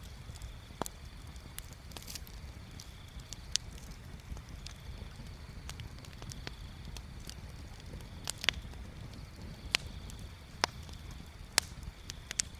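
Wood bonfire crackling, with irregular sharp pops, the loudest a little past halfway and near the end, over a low steady rumble. A faint high steady trill comes and goes.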